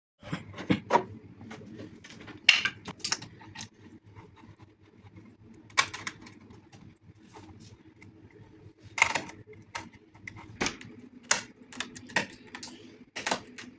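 Irregular sharp clicks and knocks of hand work on door hardware, over a steady low hum.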